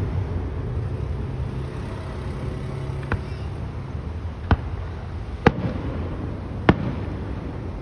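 Fireworks bursting: four sharp bangs a second or so apart, over a steady low rumble.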